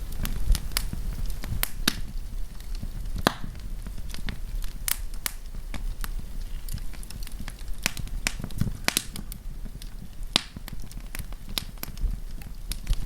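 Wood fire burning, with sharp irregular pops and snaps of the burning wood, several a second, over a low steady rumble of the flames.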